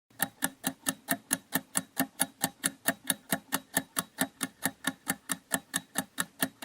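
Countdown timer sound effect: a clock ticking fast and evenly, about four to five ticks a second, while the answer timer runs.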